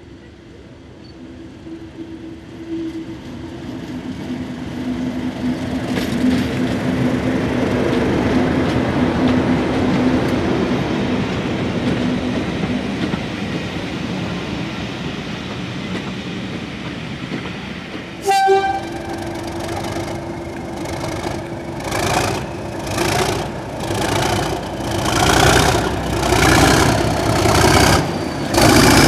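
A heritage British diesel locomotive passing with its train, sounding a two-note horn as the rumble of the train builds. About two-thirds of the way through, after a sudden break, the horn sounds again and the sound turns into loud pulses about once a second.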